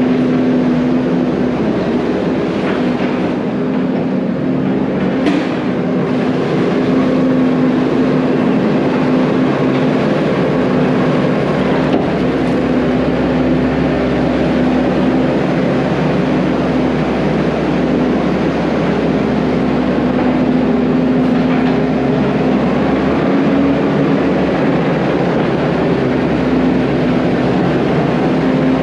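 Diesel engine of heavy construction equipment running steadily under load with a constant low drone, as the machine works a wet compacted floor.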